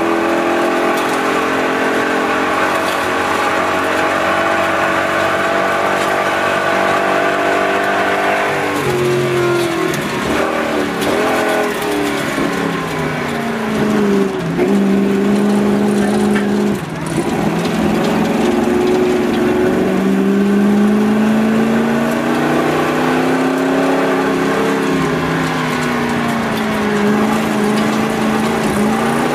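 1951 Chrysler New Yorker's 354 Hemi V8 being driven hard. Its pitch climbs steadily for about eight seconds, drops sharply, then revs rise and fall again and again for the rest of the time.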